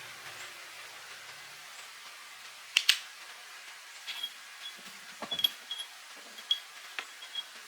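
Metal parts and hand tools being handled: two sharp clicks about three seconds in, then a scattered run of light, ringing metallic clinks over a steady hiss.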